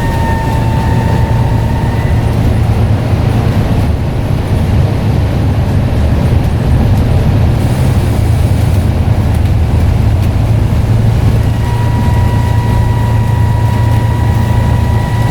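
Scania N94UD double-decker bus engine running under way with a deep steady drone, and a high steady turbocharger whistle over it for the first second or so and again from about two-thirds of the way through.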